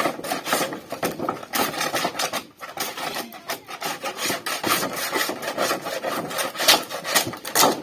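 Rapid, repeated rasping scrapes of a hand tool working sheet metal from an old refrigerator as a pot lid is cut out.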